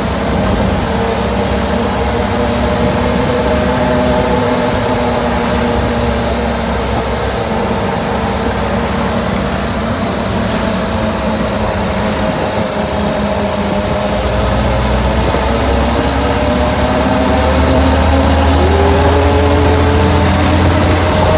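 Engine of an off-road cage buggy (gaiola cross) running steadily, its pitch drifting slightly up and down; a deeper rumble grows about two-thirds of the way in.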